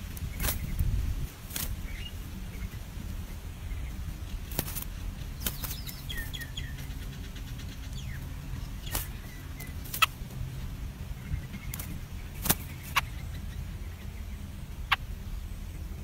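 A few faint, short, high cheeps from birds at a nest with naked nestlings, around the middle, over a steady low rumble with sharp clicks now and then.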